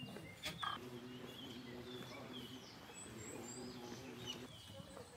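Birds calling outdoors: short high chirps over two runs of a lower, evenly pulsed call, with a couple of clicks about half a second in.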